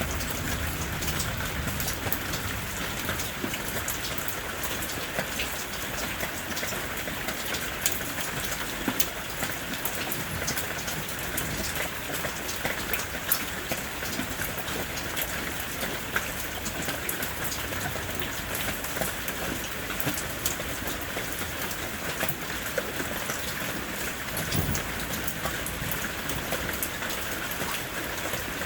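Heavy rain falling steadily, a dense hiss with many individual drops ticking on a surface. A brief low rumble comes near the end.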